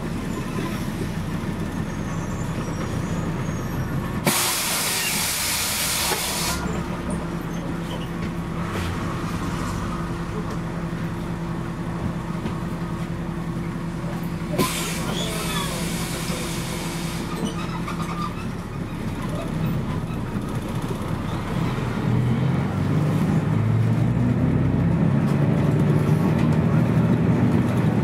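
Scania CN113CLL city bus with its Scania DSC 11 straight-six diesel running, and two loud bursts of compressed air hissing out, about four seconds in and again about fifteen seconds in. Near the end the engine speeds up and gets louder as the bus pulls away.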